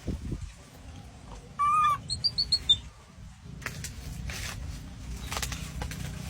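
An animal's short, loud, wavering call about two seconds in, followed at once by five quick high chirps. After that, a low steady rumble and rustling.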